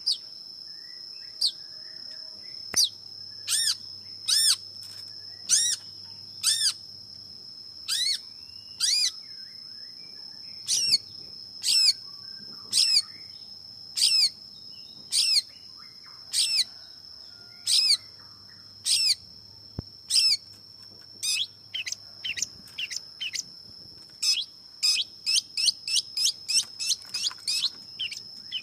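Long-tailed shrike (cendet) calling: short, sharp, high notes repeated about once a second, quickening to a rapid run of several a second near the end. A steady high-pitched tone runs underneath.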